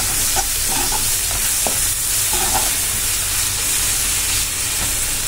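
Chopped onion and tomato sizzling steadily in hot oil in a kadai as they are stirred and sautéed with a perforated steel ladle, which now and then scrapes lightly against the pan.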